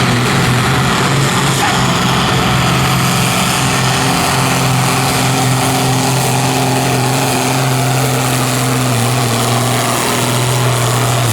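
Competition pulling tractor's engine running loud and steady at a high, even pitch, with a slight wobble in pitch near the end.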